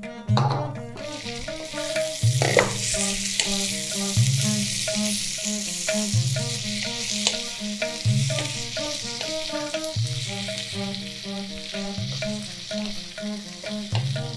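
Bitter gourd slices and onion sizzling in hot oil in a wok, stirred with a wooden spatula that scrapes the pan now and then; the sizzle sets in about a second in. Background music with a slow low beat plays underneath.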